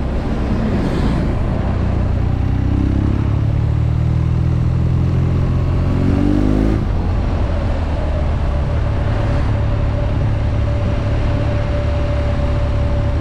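BMW R nineT's boxer twin engine running under way, its note rising as the bike pulls through the revs from about two to seven seconds in, then holding steady at a cruise, over a constant rush of noise.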